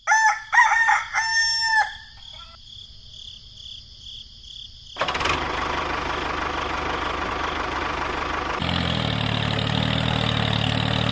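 A rooster crows loudly at the start. About five seconds in a steady mechanical noise starts, and a small engine's low, even running hum joins it near the end.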